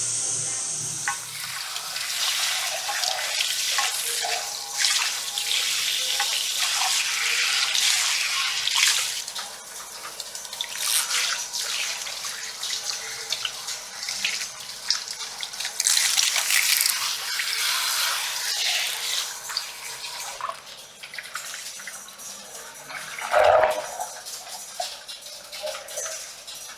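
Running water from a salon shampoo-basin sprayer splashing onto hair and into the sink, swelling and fading as the spray moves. A short thump comes near the end.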